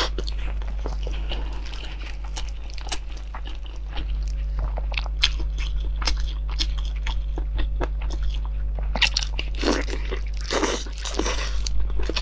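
Close-up eating sounds of braised meat: biting, chewing and wet smacking with many small crunchy clicks, louder about two-thirds of the way through. A low steady hum sits underneath.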